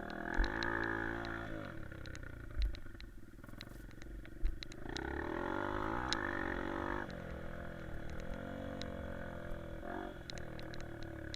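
Honda CRF150F's single-cylinder four-stroke engine revving up and falling back again and again as the dirt bike is ridden, heard from a helmet-mounted camera with wind buffeting the microphone. A few short thumps in the first half.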